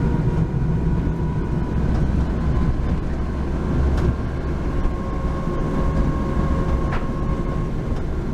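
Honda Acty van running steadily, a continuous low engine and road rumble with a thin, steady whine over it, and two faint ticks.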